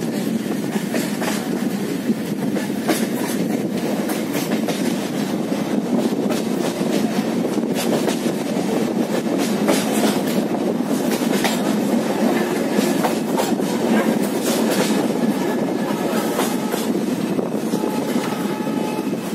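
Passenger train coach running along the track, heard from an open window: a steady rolling rumble of wheels on rails with irregular clickety-clack from the rail joints.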